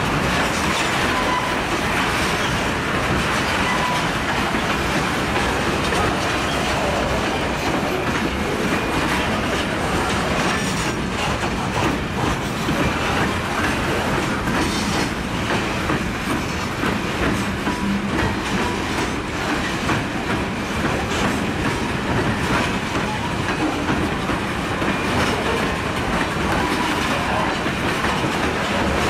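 Freight train of covered hopper cars rolling past at close range: a steady rumble of steel wheels on rail, with the clickety-clack of wheels over rail joints.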